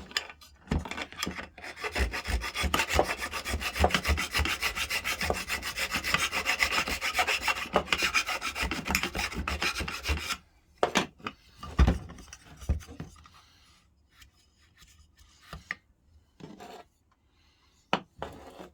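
Hand file scraping quickly back and forth on the metal tab inside a DeWalt biscuit jointer's dust extraction port, filing it away. The filing stops about ten seconds in, giving way to a few scattered light knocks and clicks.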